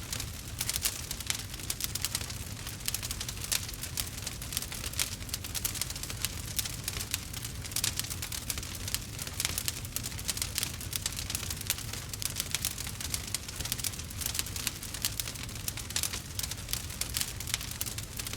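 Burning wood fire crackling and popping: a dense, irregular run of small sharp crackles, with a steady low rumble underneath.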